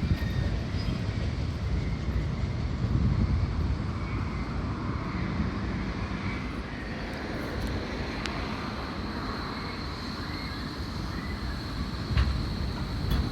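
Electric tram running along the track with a steady low rumble; a thin, steady high whine sets in about two-thirds of the way through.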